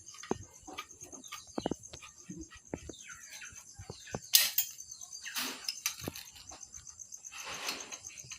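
Crickets trilling steadily in the background, with scattered clicks and taps and a few short hissing bursts, the loudest about four seconds in.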